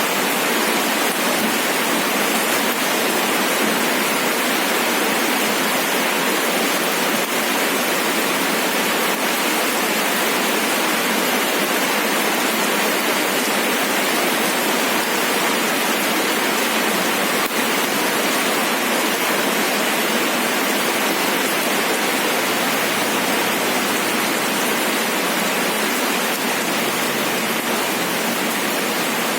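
Rain falling steadily: a constant, even hiss of drops with no breaks or separate sounds standing out.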